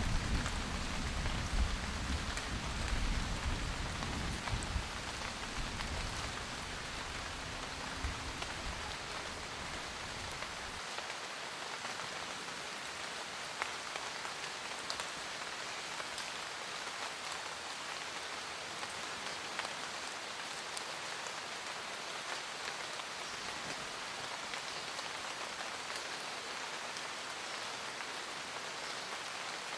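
Steady rain with scattered drop ticks, with a low thunder rumble that fades away and ends about ten seconds in.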